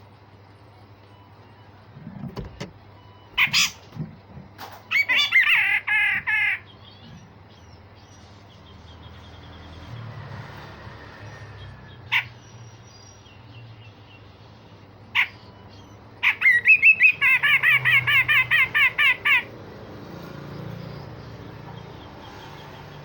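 Cucak jenggot (grey-cheeked bulbul) calling: single sharp, abrupt notes and two bursts of rapid, harsh, rattling notes. The first burst comes about five seconds in and a longer one starts about three-quarters of the way through.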